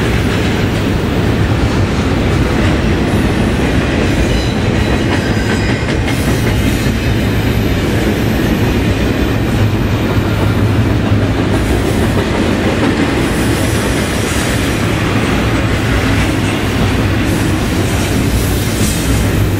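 Double-stack container freight train passing close by: the well cars' wheels rolling on the rails in a loud, steady, low rolling noise.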